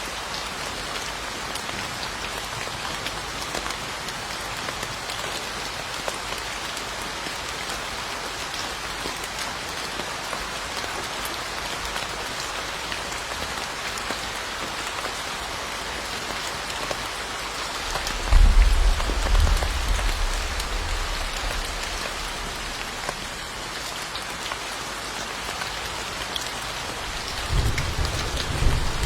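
Steady heavy rain hissing and pattering. Twice, a sudden deep rumble rises under it, about two-thirds of the way through and again near the end, the first being the loudest moment.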